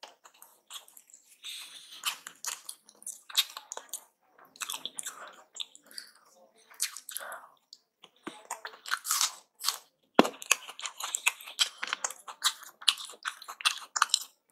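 Close-up chewing and crunching of aloo paratha, a string of irregular wet clicks and crackles, sparse at first and denser in the second half, with one sharp click about ten seconds in.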